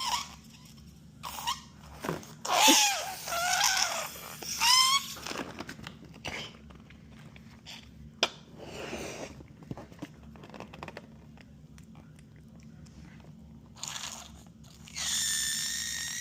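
Rubber balloon squeaking and squealing. Pitched squeals wobble up and down about two to five seconds in, with scattered rubbing squeaks, and a high, steadier squeal begins near the end.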